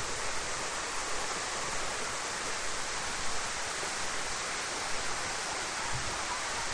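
Steady rushing of flowing water, an even hiss-like noise with no breaks.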